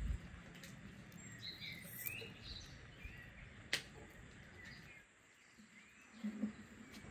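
Faint outdoor ambience with small birds chirping in short calls, a sharp click about halfway through, and a couple of soft knocks near the end.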